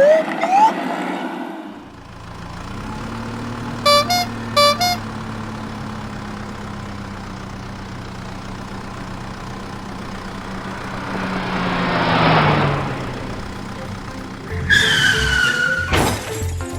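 Cartoon vehicle sound effects: a steady engine drone with two short horn honks a few seconds in, then a rising and falling whoosh like a vehicle driving past.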